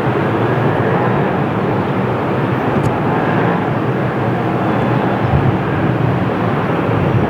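Airbus A330-200 jet engines running steadily at high go-around thrust: a continuous, even jet noise.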